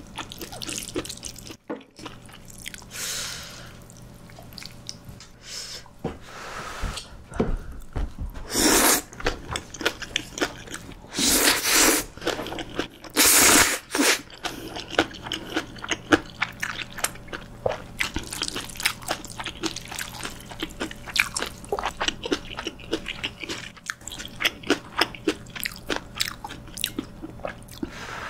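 Close-up chewing and crunching of Chapagetti jjajang noodles and green onion kimchi, wet mouth clicks coming thick and fast, with a few louder slurps of noodles about a second long in the middle.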